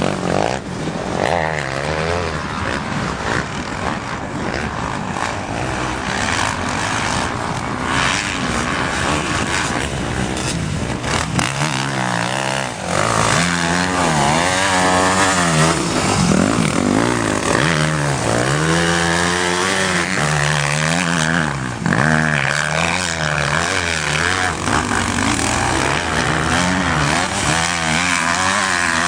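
Motocross motorcycles on track, their engines revving up and down over and over, with several engines overlapping at times.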